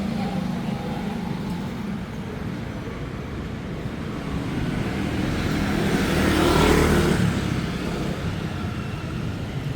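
Busy street traffic, mostly motorbikes, running steadily. One vehicle passes close, growing louder to a peak about six to seven seconds in and then fading.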